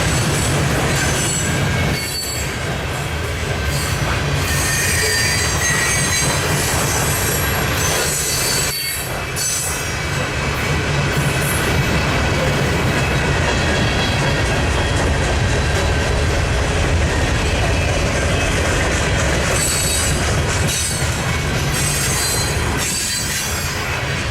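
Freight train rolling past, its wheels squealing in high thin tones over the steady rumble of the cars.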